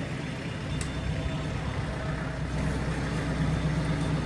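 A steady low engine hum, like a motor vehicle idling, that grows a little louder about a second in.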